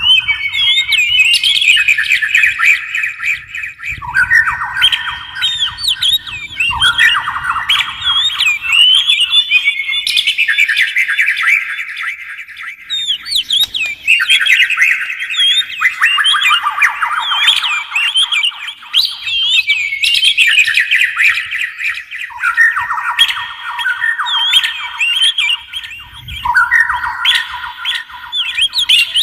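A Copsychus songbird singing, the kind kept by Indonesian bird fanciers (kacer or murai batu). The song comes in bouts of two to three seconds of fast, rapidly repeated notes. Each bout starts lower and jumps higher, and the bouts follow one another almost without a break.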